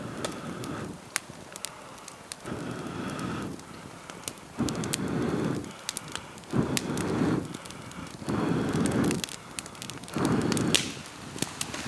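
Campfire crackling with sharp pops, over six rushing bursts of noise, each about a second long and roughly two seconds apart.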